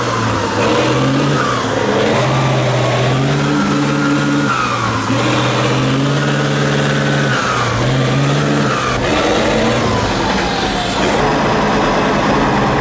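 A homemade tractor's engine revving hard under load, its pitch stepping up and down, with higher tones gliding up and down above it. The tractor is straining on a near-vertical slope where it has lost grip and is stuck.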